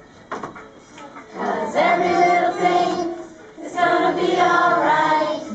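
Group of voices, children among them, singing two long held phrases without clear words.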